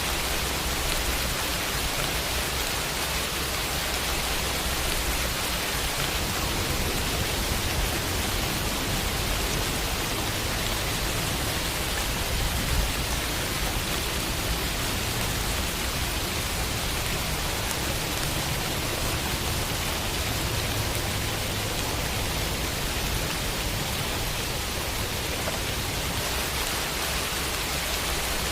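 Steady rain falling on a window, an even hiss without let-up.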